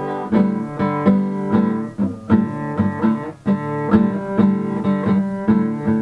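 Acoustic guitar strumming chords in a steady rhythm, about two to three strokes a second.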